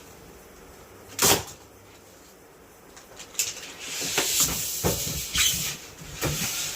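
A single sharp knock about a second in, then from about three seconds in a run of repeated knocks and rattling, like something being handled or opened and shut.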